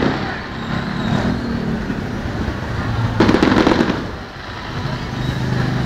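Fireworks display: a dense volley of rapid crackling bangs about three seconds in, with a low, steadier noise between the volleys.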